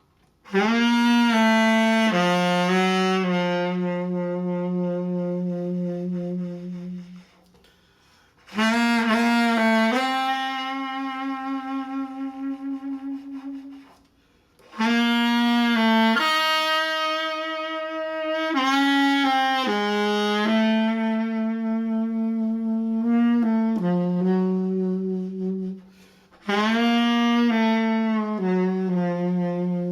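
Solo saxophone playing a slow, meditative melody of long held notes in four phrases, with brief pauses for breath between them.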